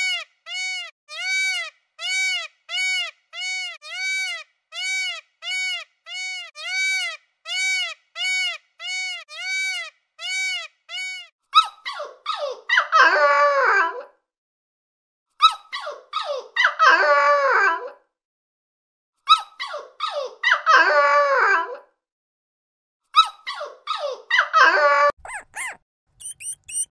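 A peacock's short rising-and-falling calls, repeated evenly about twice a second for some eleven seconds. Then puppies whining and yelping in three or four bursts of a couple of seconds each, a few seconds apart, and a few faint clicks near the end.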